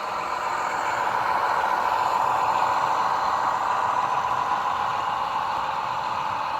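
Märklin model diesel locomotive's ESU LokSound v5 decoder playing a diesel engine sound through its small onboard speaker, running steadily.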